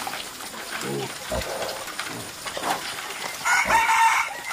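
Pigs grunting, with a loud, pitched cry lasting under a second about three and a half seconds in.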